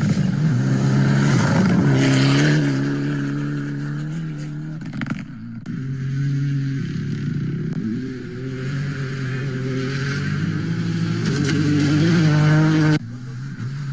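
Rally car engines at high revs, rising and falling as the cars drive past. The sound cuts off abruptly twice, at about five seconds and near the end, as one clip gives way to the next.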